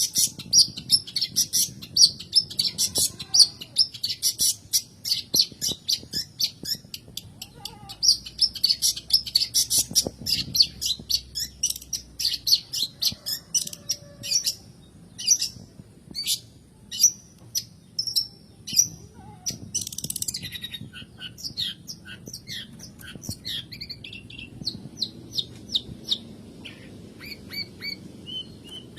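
Long-tailed shrike (cendet) singing: a fast run of short, sharp, high chirps, packed close together for the first ten seconds or so, then sparser and more varied.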